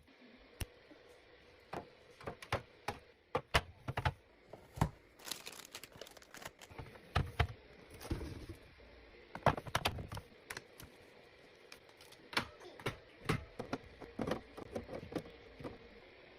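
Irregular clicks, taps and knocks, with some crinkling, from plastic and glass containers and packaging being handled and set down during a fridge restock.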